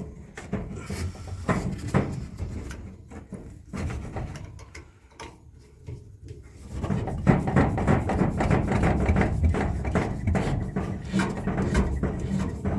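Hands working on plumbing pipe and fittings: scattered knocks and clicks, then from about seven seconds in a steady run of rubbing and clattering as the parts are handled.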